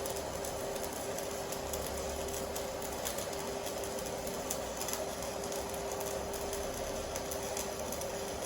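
TIG welding arc from an AC/DC TIG 200 inverter welder, burning steadily with a constant buzz over a hiss, laid as the finishing pass on a pipe weld.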